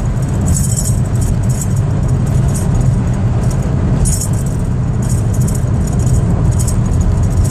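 Interior noise of a Skoda Octavia with the 1.9 TDI ALH four-cylinder diesel: a steady low engine and road rumble, with light jingling rattles that come and go irregularly.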